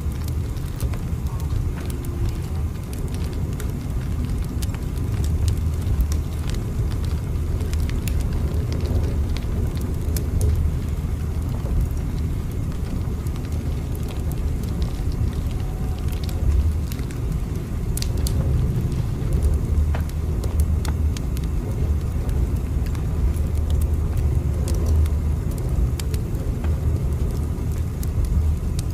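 Train running with a steady deep rumble, with faint irregular clicks scattered over it.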